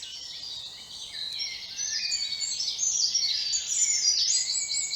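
Several songbirds singing at once, a dense overlapping chorus of high chirps and trills that grows louder about a second and a half in.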